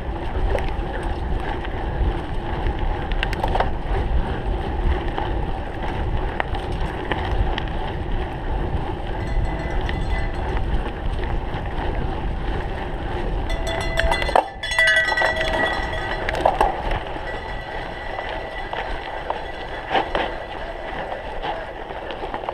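Wind on the microphone and rolling tyre noise from a cyclocross bike being ridden over the course. About 14 seconds in there is a brief cluster of clicking and rattling.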